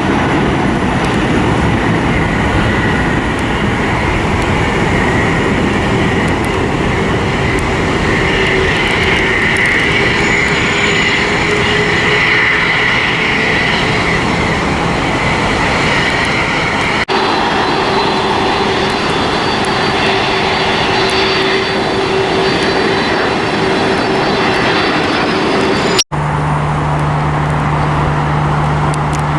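Jet airliner engines running loud and steady, with a higher whining tone that swells through the middle. The sound cuts off abruptly twice, a little past halfway and again near the end, and after the second cut a steady low hum takes over.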